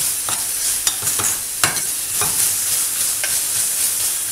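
Chopped onion and ginger-garlic paste sizzling in hot oil in a metal saucepan, with a spoon stirring and scraping against the pan about twice a second.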